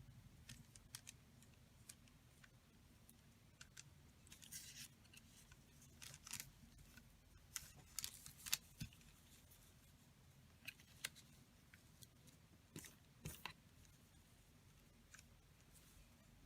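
Faint handling of paper and small craft pieces: scattered light clicks and short rustles, a few of them louder around the middle.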